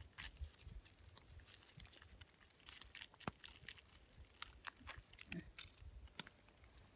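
Faint, irregular crackling and rustling: many short, scattered clicks with no steady rhythm.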